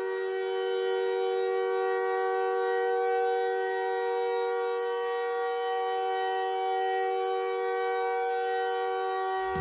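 A sustained chord of several steady tones held without change, like a synthesizer drone.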